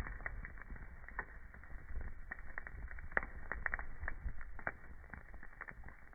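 Wood fire crackling: irregular sharp pops and snaps over a low rumble, the loudest pop about three seconds in.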